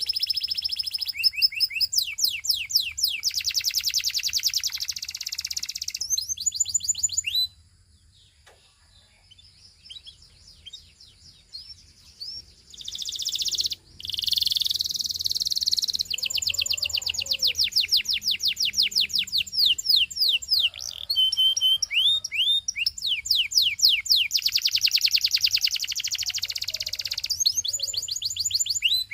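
Domestic canary singing in long, fast trills of rapidly repeated high notes, some rolled and some falling in pitch. It breaks off for about five seconds a quarter of the way through, then resumes.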